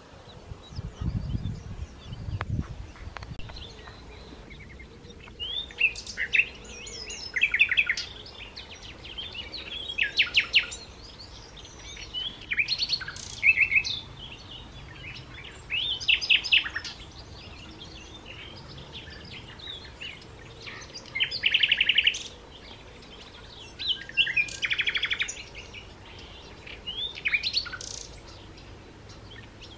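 Songbird singing outdoors: short trilled, chirping phrases repeated every two to three seconds. Wind rumbles on the microphone for the first few seconds.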